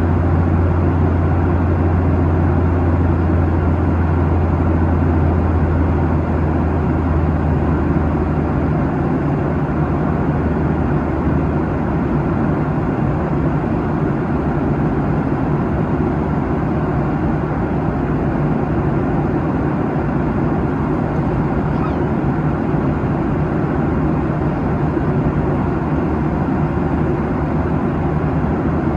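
Steady cabin drone of a Boeing 737-800 at cruise: airflow over the fuselage and the CFM56-7B turbofans, heard from inside the cabin. A deep low hum in the mix fades away about a quarter of the way through.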